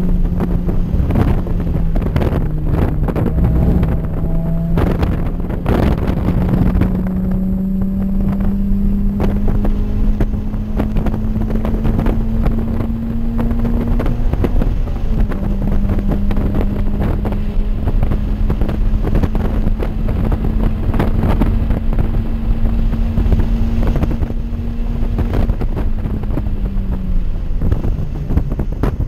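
Toyota 86's 2.0-litre flat-four engine heard from inside the cabin at hard throttle on a race track, its note climbing slowly through the revs, dropping sharply about halfway through at a gear change, climbing again and falling away near the end. Wind and road noise run under it.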